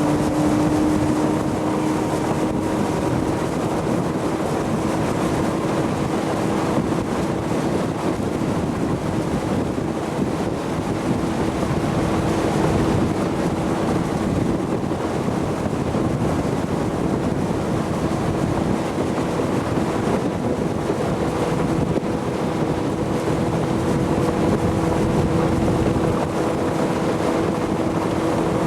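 Motorboat engine running at a steady speed under way, its hum holding one even pitch, with wind noise on the microphone.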